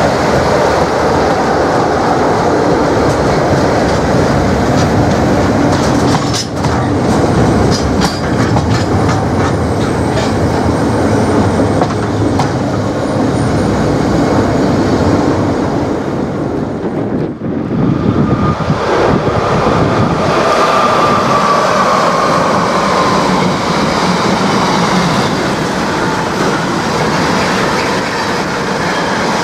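Freight train wagons rolling past with the clickety-clack of wheels over rail joints. After a brief dip about two-thirds of the way through, the rolling noise of another freight train continues with a steady high whine over it for a few seconds.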